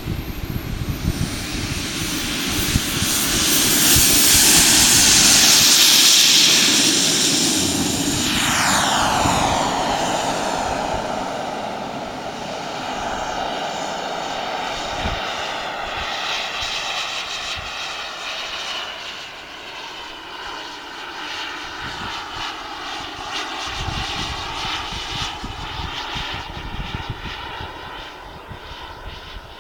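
Jet-Italia Kayman 190 model turbine engine whining as the jet flies past: the sound swells to its loudest about five seconds in, drops in pitch as it goes by, and fades with a sweeping, phasing tone before swelling again later. Wind buffets the microphone.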